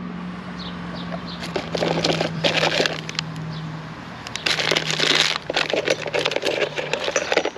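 Copper pipe and fittings being handled and tried for fit: irregular clicks, clinks and scraping, with denser rattling stretches, over a steady low hum that stops near the end.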